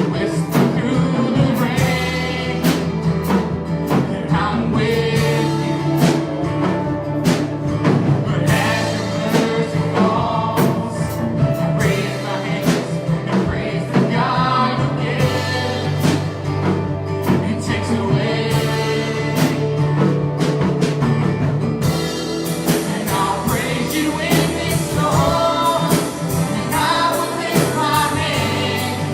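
Gospel music: a song with sung vocals over steady instrumental backing and a regular beat, with the singing growing stronger about three quarters of the way through.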